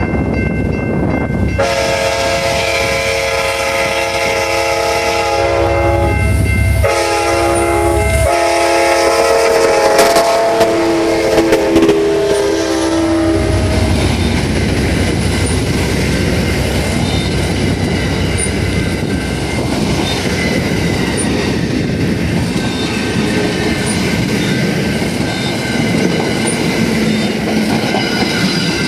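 Amtrak locomotive horn sounding in several long blasts, its chord sliding slightly lower at the end of the last blast. The train then runs on with the steady rumble and clatter of wheels on the rails.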